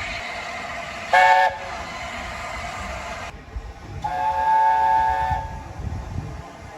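Steam locomotive whistle sounding a short blast of several tones together, then a longer blast about three seconds later. A steady hiss and low rumble run under the first blast and drop away just before the second.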